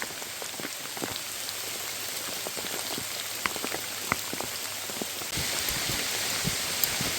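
Heavy rain pouring down, a steady hiss scattered with individual drops hitting close by. About five seconds in the rain noise abruptly grows louder and brighter.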